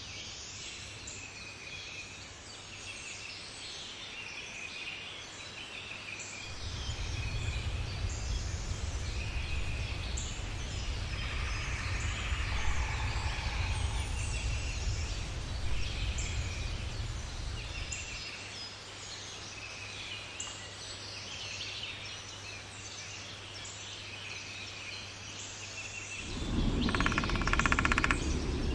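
Outdoor bird ambience: many small birds chirping and calling throughout, over a low rumble that swells from about six seconds in and fades near eighteen seconds. Near the end a louder, harsher bird call joins in.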